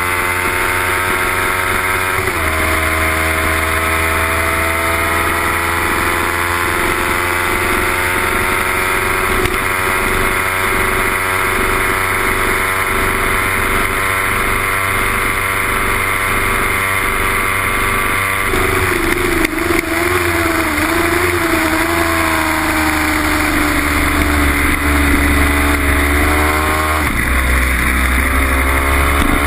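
Kawasaki Ninja 300 parallel-twin engine at racing revs, heard from on board the bike. Its pitch climbs steadily, with gear changes about 2 and 9 seconds in. Around 19 seconds the pitch wavers and drops as the bike slows through downshifts, then it climbs again with another change near the end.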